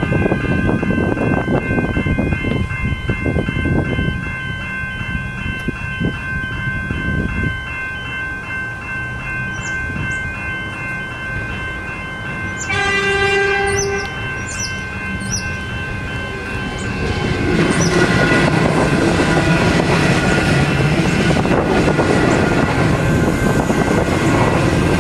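Level crossing electronic bells ringing with a steady, evenly pulsing tone. About 13 seconds in, a suburban electric train sounds its horn for about a second, and from about 17 seconds the train passes loudly over the crossing with rolling wheel noise.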